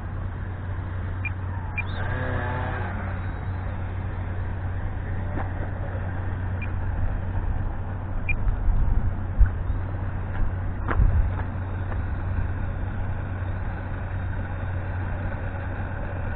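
Steady wind rumble on the microphone, with a brief wavering whine about two seconds in and a few low thumps near the middle.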